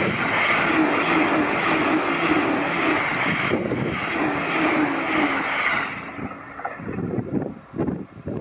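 JR East E657 series limited-express electric train passing close by at speed, a loud rush of wheels on rail and air, with a short dip about three and a half seconds in. About six seconds in the roar drops away to a much quieter, uneven rumble.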